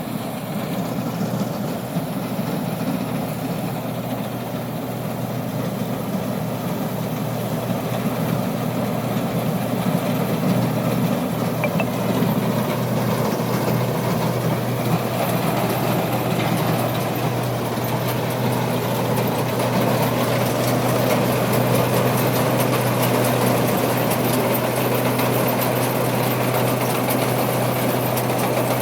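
Rice combine harvester running steadily while cutting rice: a continuous engine drone with a strong low steady tone and dense machine noise, growing a little louder and brighter partway through.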